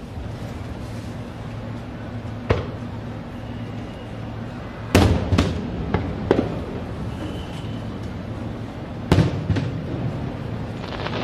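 Aerial firework shells bursting with sharp bangs: one about two and a half seconds in, a loud cluster of several about five seconds in, and another pair about nine seconds in, over a steady low hum.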